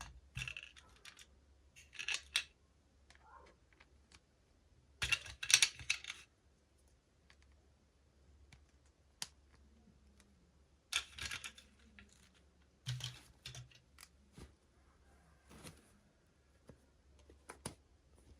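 Toy packaging being handled and opened by hand: short bursts of plastic and paper rustling and crinkling with small sharp clicks, the loudest bursts about five and eleven seconds in, over a low steady hum.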